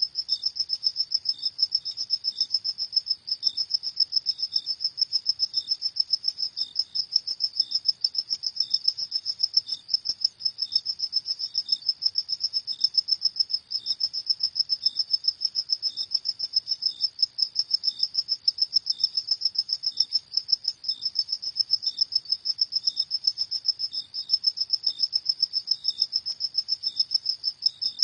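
Crickets chirping at night: a continuous fast high-pitched trill with a second, fainter cricket giving softer regular chirps beneath it.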